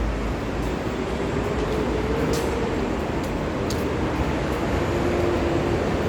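Train running: a steady rumble with a faint, slightly wavering whine and a few light clicks.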